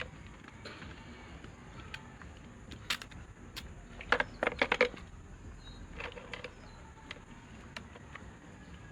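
Small sharp clicks and taps from hand work on an electric fan motor, with a quick run of about six louder clicks near the middle.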